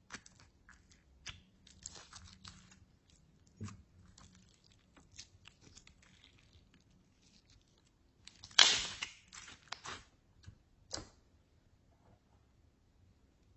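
Slime being mixed, making irregular sticky squishes and crackles, with the loudest squelch about nine seconds in.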